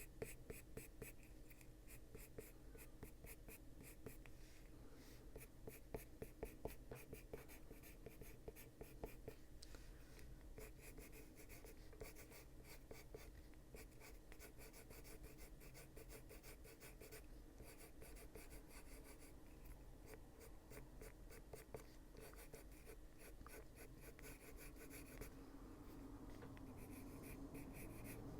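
Luminance coloured pencil scratching faintly on paper in quick, repeated back-and-forth shading strokes.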